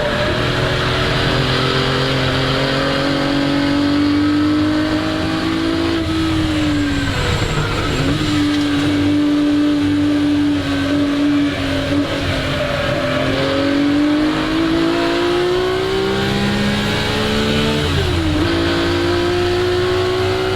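The 3-litre Colombo V12 of a 1961 Ferrari 250 GT SWB running hard on a race track, its note climbing and falling with the throttle. The pitch drops sharply about six seconds in and again near the end, then climbs again.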